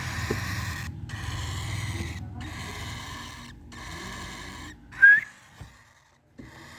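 Lutino cockatiels making raspy, hissing calls in repeated bursts about a second long, the begging noise of hungry birds, then one short rising chirp about five seconds in, the loudest sound.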